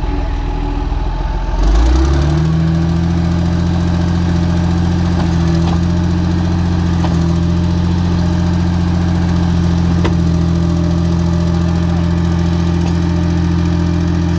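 Heavy machine's engine running, picking up speed and load about two seconds in, then holding a steady, louder drone.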